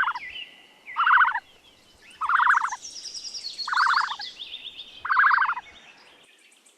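A bird calls five times in a row, about a second and a half apart. Each call is a short, rapidly pulsed note, with fainter high chirping behind it.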